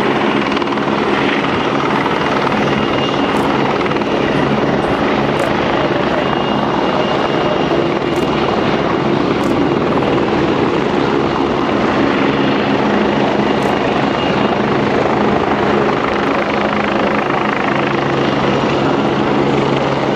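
Helicopter running steadily and loudly, its rotor and turbine giving an unbroken drone with low steady tones.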